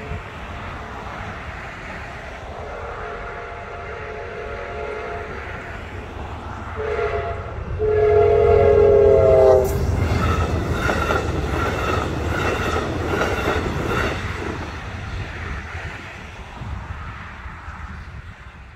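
Amtrak passenger train approaching a grade crossing: the locomotive's horn sounds several times, growing louder as the train nears, and the final long blast is the loudest. The train then passes with a heavy rumble and a rhythmic clatter of wheels on the rails, which fades near the end.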